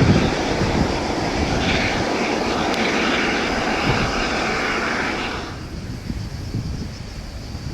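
Let L-410 Turbolet's twin turboprop engines running with a steady, hissing whine. About five and a half seconds in, the sound drops away suddenly to a lower rumble of wind on the microphone.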